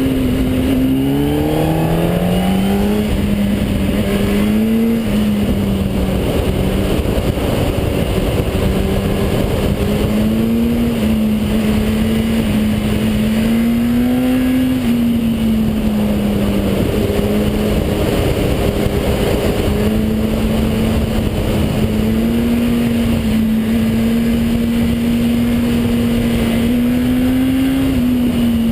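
Car engine pulling as the car accelerates: its pitch climbs over the first three seconds, then holds at a steady cruising drone with small rises and falls, over constant road noise.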